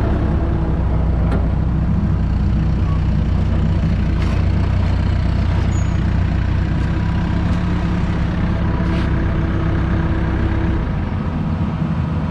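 Heavy machine's engine running steadily at a constant speed.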